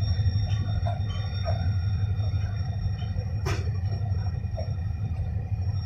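Steady low rumble of trains in a railway station yard, with faint steady high whines and short chirps over it and one sharp click about three and a half seconds in.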